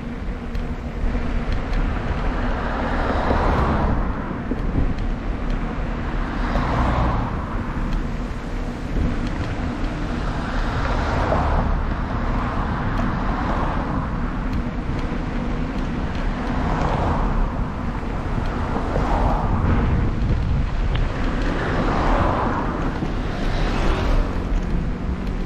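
Wind buffeting the microphone of a camera on a moving bicycle, with a steady low rumble. Road noise swells and fades about every two to four seconds, as from a run of passing cars.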